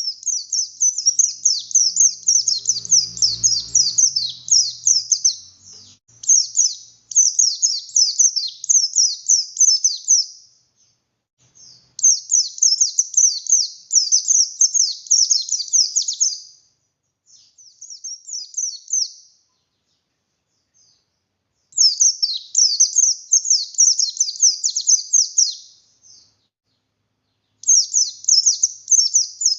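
Buxtoni white-eye (pleci buxtoni) singing hard: fast runs of high, sharp chirps delivered in about six bursts of a few seconds each, with brief pauses between them.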